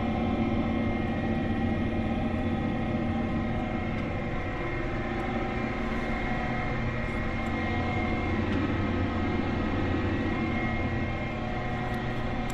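Case IH tractor's diesel engine running steadily under load while pulling a corn planter, an even drone with a constant whine above it.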